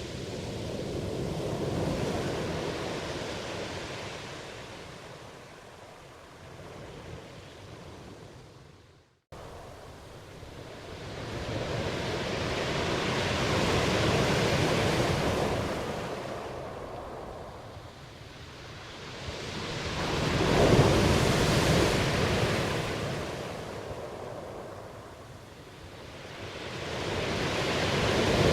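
Ocean waves breaking and washing in, the surf swelling and ebbing in slow surges every six to eight seconds. A brief cut to silence about nine seconds in, where the recording is spliced.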